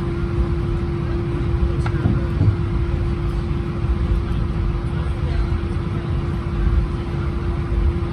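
Steady low rumble of a vehicle interior with a constant mid-pitched hum, as heard inside an airliner cabin or apron bus after landing.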